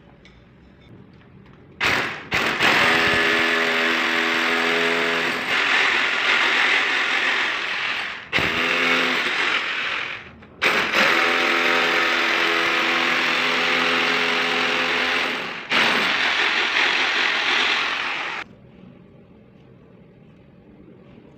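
Electric drill machine running in long bursts, starting about two seconds in and cutting out briefly twice in the middle before stopping near the end. Each start carries a motor whine under a loud, harsh running noise.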